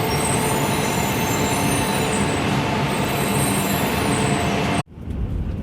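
Steady hum and whine of Shinkansen trainsets standing at a station platform, with a few faint high tones on top. It cuts off suddenly near the end, giving way to a lower, quieter rumble inside the train carriage.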